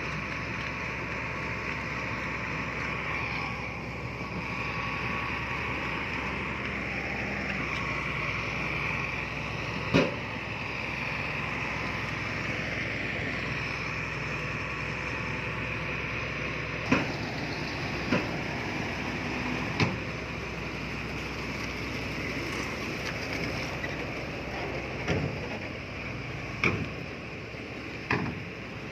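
Diesel engine of heavy earthmoving machinery running steadily, with a series of sharp metallic clanks and knocks, one near the middle and several close together in the second half.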